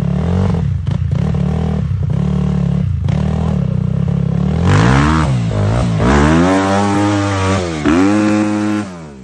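Dirt bike engine revving: short throttle blips about once a second, then several longer revs rising and falling in the second half, the engine sound dropping away near the end.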